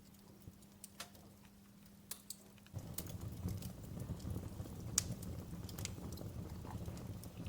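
Wood fire crackling, with scattered sharp pops and snaps. Nearly three seconds in, a louder low rumble of burning comes in and the crackling grows denser.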